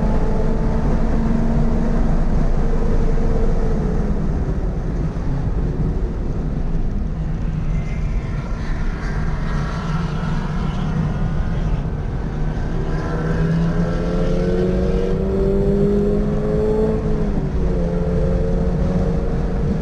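Toyota GR86's flat-four engine running hard on track: the pitch holds high, falls away about four seconds in, then climbs steadily through a gear before dropping sharply with a shift near the end, over constant road and wind noise.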